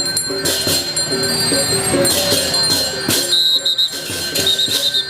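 Balinese gamelan music: metal percussion playing a repeating melody with bright crashes every second or so.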